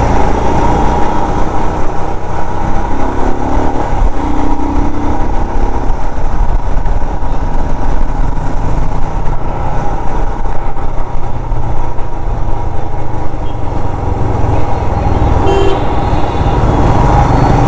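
Riding a Royal Enfield Himalayan motorcycle through city traffic: its engine and wind noise make a steady, loud rumble. Vehicle horns toot briefly, about three seconds in and again near the end.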